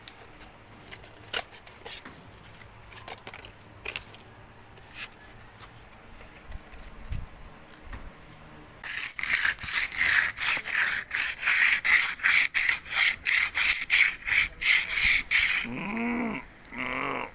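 Rhythmic rasping strokes, about three a second, start about nine seconds in and run for several seconds, like sawing or scrubbing. Near the end come two short pitched sounds that rise and fall.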